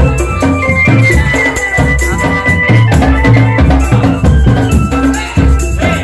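Drum band music: bass drums beating a steady rhythm with rattling percussion, under a held melodic line.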